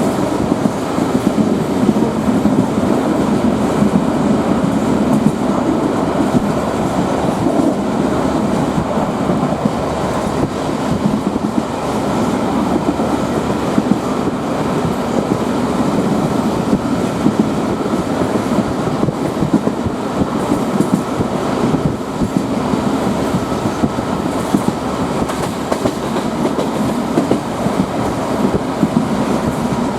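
D1 diesel multiple unit under way, heard from inside the carriage: a steady rumble of the train running, with the wheels clattering over the rail joints.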